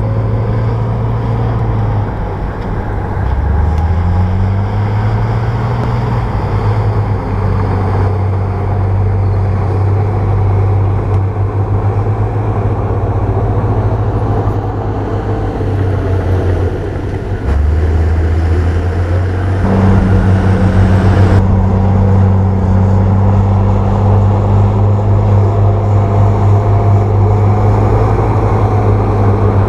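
Heavy diesel engine of a bulldozer working, running steadily with its speed rising and falling under load: it picks up a few seconds in, drops back past the middle and rises again soon after.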